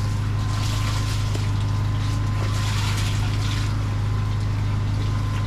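Engine of a drain-cleaning vacuum or jetting unit running steadily at constant speed, a low even drone, with a few short rushes of hiss over it.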